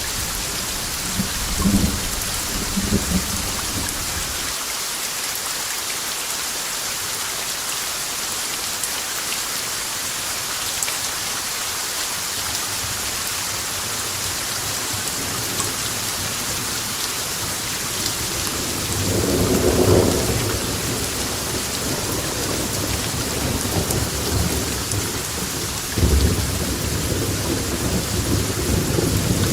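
Steady heavy rain falling, with rolls of thunder: rumbling in the first few seconds, a swelling roll about two-thirds of the way in, and a sudden low rumble near the end.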